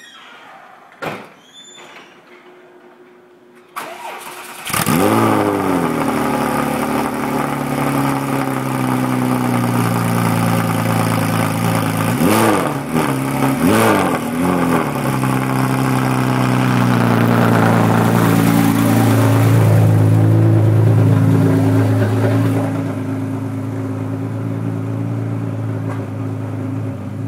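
Porsche 911 GT3 flat-six engine cranking and catching about five seconds in, after a few seconds of faint garage-door noise. It idles loudly, with two quick throttle blips a little over halfway through, and the idle settles quieter near the end.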